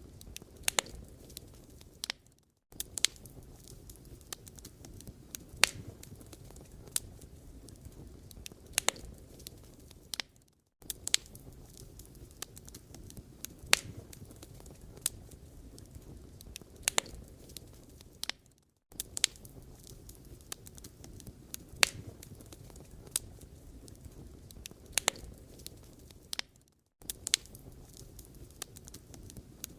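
Wood fire burning, firewood logs crackling with irregular sharp pops over a low steady rustle. It cuts out briefly to silence about every eight seconds.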